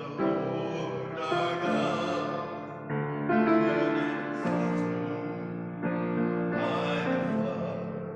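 Congregation singing a slow hymn with instrumental accompaniment, in sustained chords that change every second or two.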